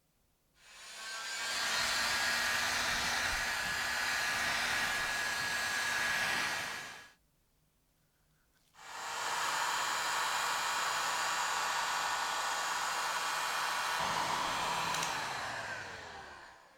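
A small electric power tool running twice, for about six and about seven seconds, each time spinning up to a steady whir and then winding down.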